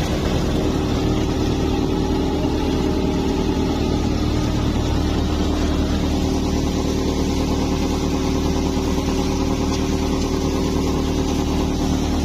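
Al Ghazi tractor engine running steadily, driving a thresher that is threshing berseem seed, a continuous mechanical drone.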